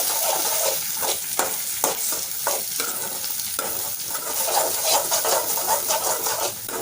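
Eggs scrambling in hot oil in a kadai, sizzling steadily while a spatula stirs and scrapes the pan in repeated, irregular strokes.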